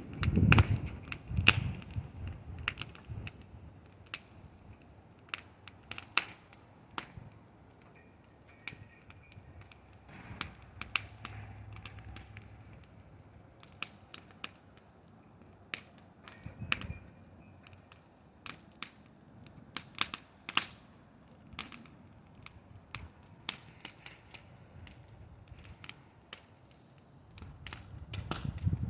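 Bonfire crackling, with sharp irregular pops every second or so over a low hiss.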